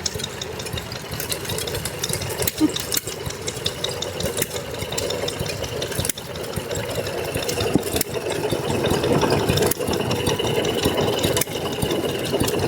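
Vintage stationary engines running, a steady mechanical clatter with frequent sharp clicks and knocks.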